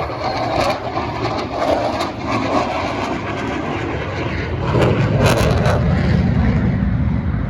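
Airplane engine noise, with a low rumble that grows louder about five seconds in.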